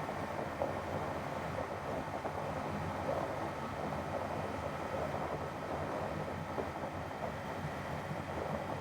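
Kawasaki Z500's parallel-twin engine running steadily at cruising speed, with wind and road noise.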